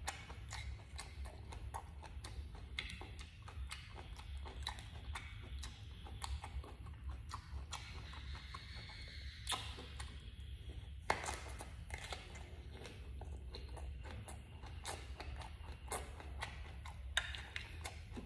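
Close-up eating sounds: chewing with irregular wet mouth clicks and smacks, several a second, a few sharper ones standing out, over a steady low hum.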